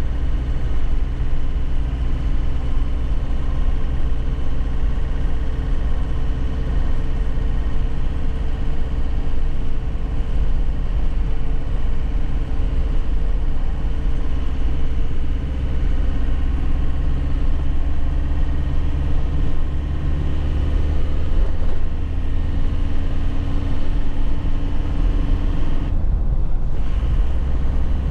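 2001 Nissan Cabstar light truck's diesel engine running under way, heard from the cab, its pitch drifting slowly with road speed. Near the end the higher part of the sound drops away for about a second.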